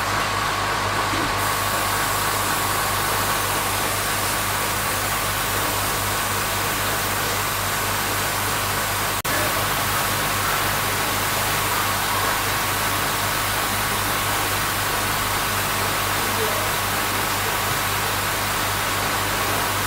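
A steady running motor or engine: a constant hum with a hiss over it, unchanging in pitch, with a momentary break about nine seconds in.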